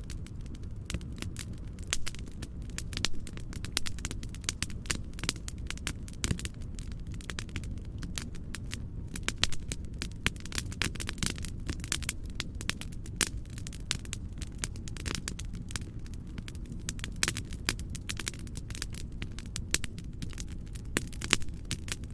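Wood fire crackling and popping with many irregular sharp snaps over a steady low rumble.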